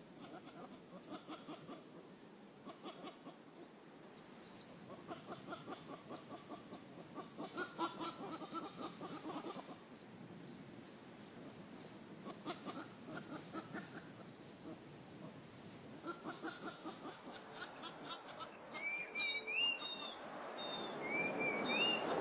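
Bird calls: several bouts of rapid, low pulsed chattering calls. Near the end, a different bird gives two short rising whistled phrases over a steady high insect whine.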